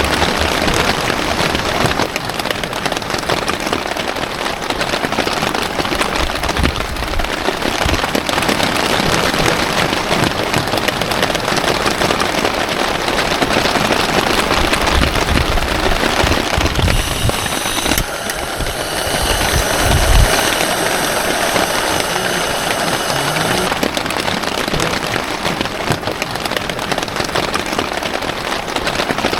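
Heavy storm rain hammering steadily on a tent or tarp, with gusts of wind buffeting the microphone now and then.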